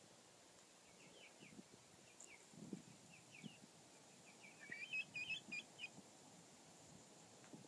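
Faint, scattered bird chirps, breaking into a quicker run of brighter chirps about five seconds in, with a few soft low thumps.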